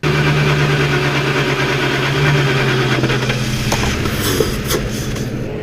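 Ford Crown Victoria Police Interceptor's 4.6-litre V8 catching suddenly and running steadily with its throttle body swapped out, easing off slightly near the end.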